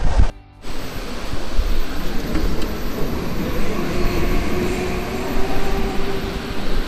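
Indian Railways passenger train running, a steady rumble of wheels on rails heard from inside the coach by its open door, with a faint steady whine for a few seconds midway. The sound cuts out briefly about half a second in.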